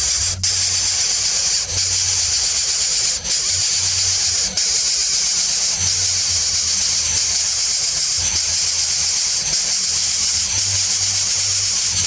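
Steady loud hiss, strongest in the high range, with a low hum underneath and brief dips every second or so.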